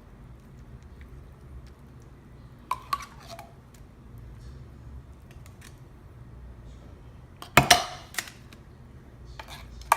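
A spoon clinking and tapping against a container while condensed cream soup is spooned out and spread: a pair of light clinks about three seconds in and a louder clatter of several clinks past the seven-second mark, with one more clink at the very end.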